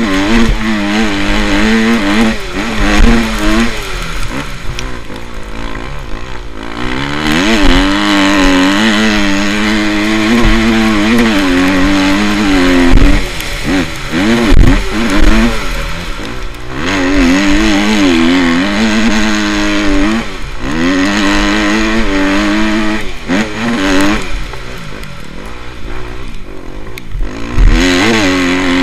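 Motocross motorcycles racing, their engines revving hard and falling back again and again through gear changes and corners, with more than one bike heard at once.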